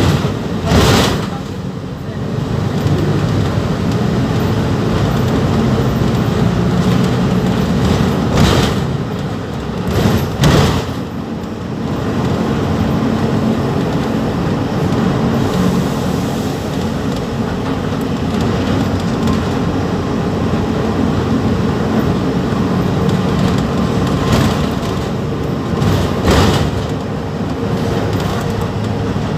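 Mercedes-Benz OF-1721 BlueTec 5 bus's diesel engine running steadily. A few short knocks or bursts rise above it: one about a second in, two more around the middle, one near the end.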